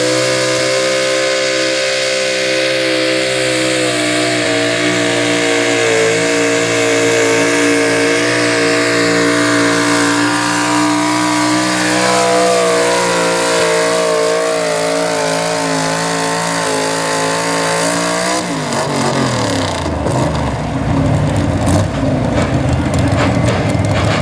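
Two-wheel-drive super stock pulling truck's engine at full throttle, its revs climbing at the start to a high, slightly wavering pitch that is held for about eighteen seconds. Near the end the pitch falls away sharply as the throttle is let off, leaving a rougher, lower running sound.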